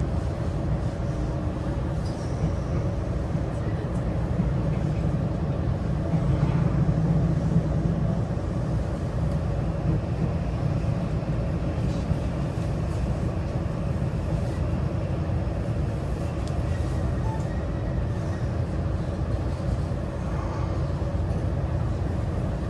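Interior running noise of a JR West 323-series electric train: a steady low rumble of wheels on rail with a faint steady hum above it, swelling a little about a quarter of the way in.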